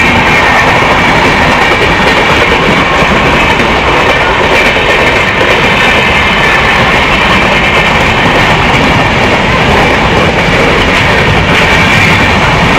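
Steady loud running noise of two Indian Railways passenger trains moving side by side at speed, heard from an open coach window.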